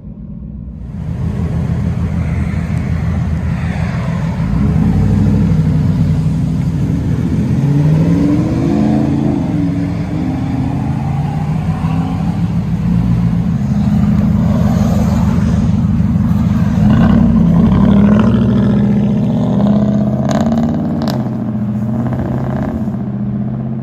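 Nissan Titan 5.6-litre V8 with a true dual straight-pipe exhaust, heard from inside the cab while driving: a loud, deep exhaust drone whose pitch rises and falls as the revs climb and ease off. A few sharp clicks come near the end.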